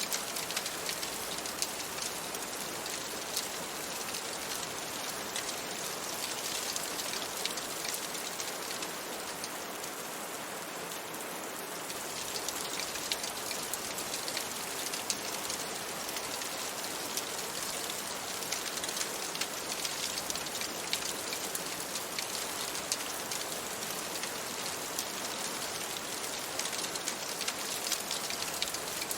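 Steady rain falling on a window: an even hiss thick with small drop ticks.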